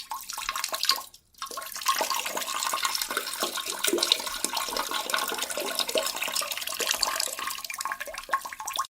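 Rushing, splashing water, with a short break a little over a second in.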